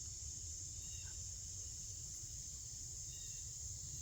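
Insect chorus outdoors, a steady high-pitched drone without a break, over a low rumble and a few faint short chirps.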